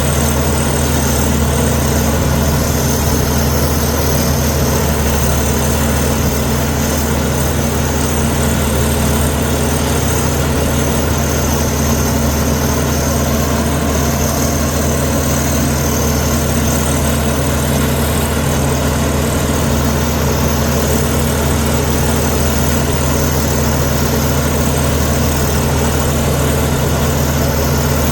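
Komatsu D61EX bulldozer's diesel engine running steadily at an even speed, a constant low drone with no change in pitch.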